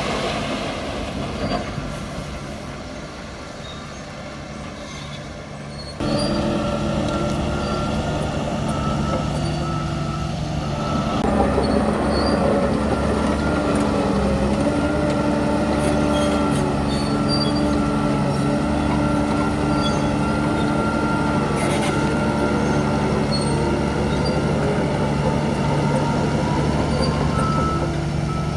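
Heavy diesel earthmoving machinery running steadily, with engine tones and a higher whine over them. It jumps abruptly louder about six seconds in, and its pitch dips briefly near the middle.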